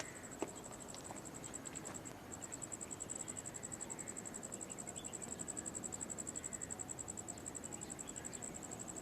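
An insect chirping in a high, fast, even pulse of about eight or nine beats a second, with a brief break about two seconds in.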